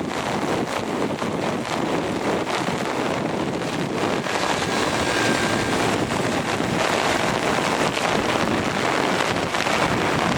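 A steady rushing roar that grows gradually louder: heavy rain mixed with the engines of a jet airliner.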